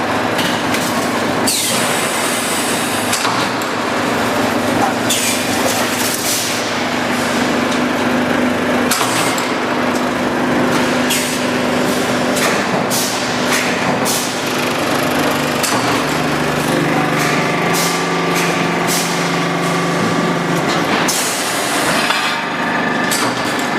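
Loud factory machinery running, with a constant hum and frequent sharp metallic knocks. A few extra steady tones join for several seconds past the middle.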